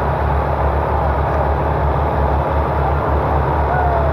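Tractor engine running steadily, an even low-pitched thrumming with no change in speed.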